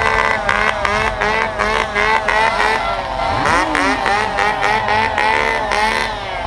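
Several motorcycle engines being revved hard at once, their pitch rising and falling in quick repeated throttle blips about twice a second, with one longer rev sweeping down and back up about three and a half seconds in.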